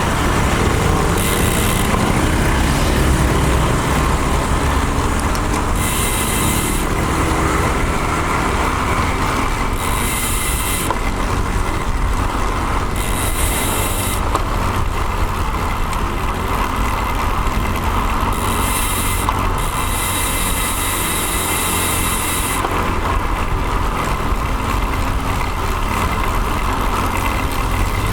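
Wind rushing over the microphone of a bike-mounted action camera with road noise while a road bike rides along, steady throughout, with bursts of higher hiss switching on and off every few seconds.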